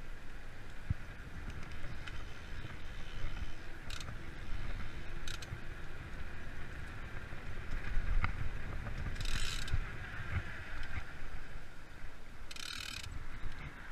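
Freeride mountain bike's rear freehub ratchet buzzing as it coasts, over a steady rumble from the tyres and frame on a forest trail. Two short hissing bursts come in the second half.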